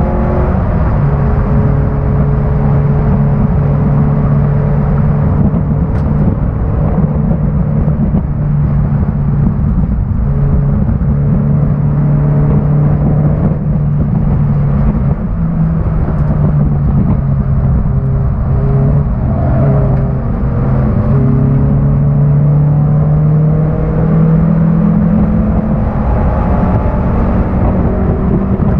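1991 Honda Accord's 2.2-litre four-cylinder engine running hard under race load, its pitch holding steady, dipping and climbing again as the revs change, over steady road and wind noise.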